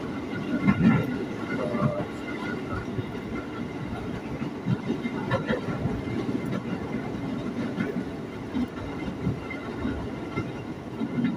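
Electric commuter train running at speed, heard from inside the carriage: a steady low rumble with occasional knocks from the wheels on the track.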